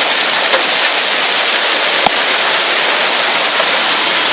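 Hail and rain pelting down in a steady, dense hiss, with one sharp knock of a stone striking something about two seconds in.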